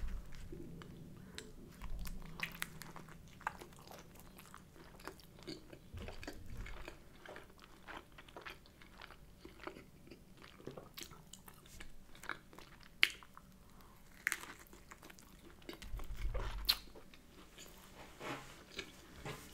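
Close chewing and biting of a soft sesame brioche bagel sandwich: moist mouth sounds with many small clicks and one sharper click partway through. A few dull low thumps come and go.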